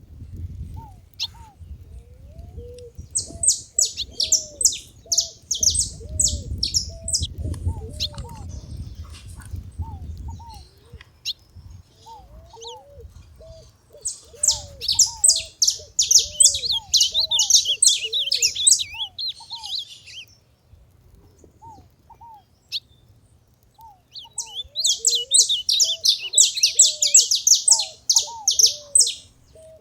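Saffron finch singing in three bouts of rapid, high chattering notes, with a lower short call repeated every second or so between them.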